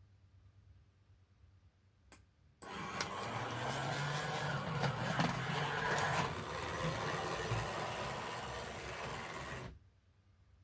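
O gauge model tram running along the track: a steady whirr from its small electric motor, with scattered clicks, starting suddenly about two and a half seconds in after a single click and cutting off abruptly about seven seconds later.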